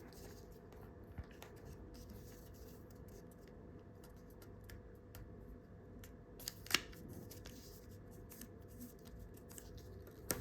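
A sheet of A4 paper being handled and re-creased by hand while a fold on a paper plane is corrected: faint crinkling and small clicks, with a sharper crackle about two-thirds of the way in.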